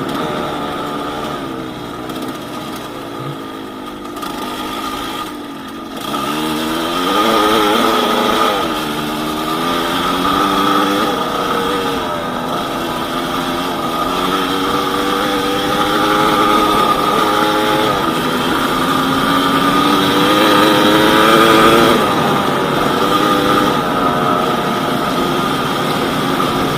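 Yamaha DT200WR two-stroke single-cylinder engine running under way: softer for the first few seconds, then revving up sharply about six seconds in, with the revs rising and falling repeatedly.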